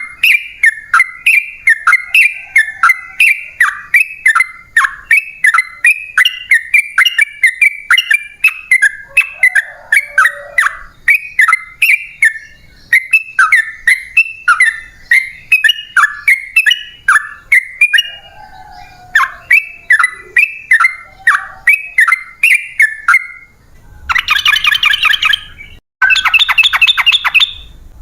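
Yellow-vented bulbul (trucukan) singing a long, unbroken run of loud, short bubbling notes, about two to three a second. From about 24 seconds in the song changes to dense, fast rattling phrases, with a brief break near 26 seconds.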